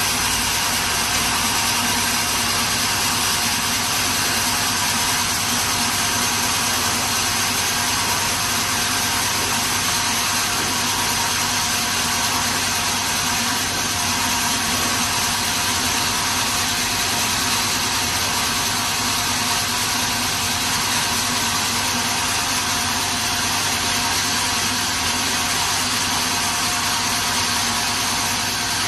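Sawmill machinery running steadily: a constant mechanical drone with a bright hiss and a few steady hum tones, unchanging throughout.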